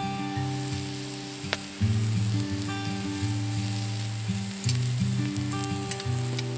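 Meat sizzling on a grill net over a campfire: a steady hiss with fine crackles, under background music with slow changing low notes.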